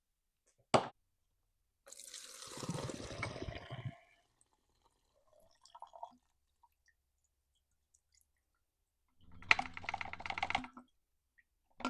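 Old fuel being dumped out of a Stihl MS362 chainsaw, splashing into a container for about two seconds after a sharp click. Later comes a short, rapid rattle.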